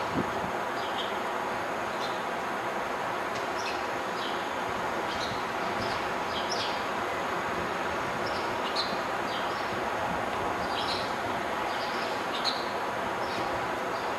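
Small birds chirping in short repeated calls, about one a second, over a steady outdoor city rumble. A brief thump comes right at the start.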